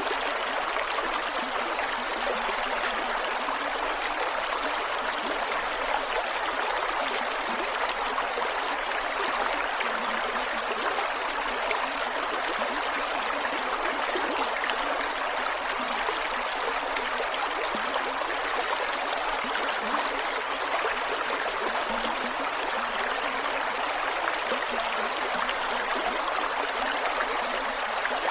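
Creek water flowing over rocks, a steady rushing with gurgles and trickles.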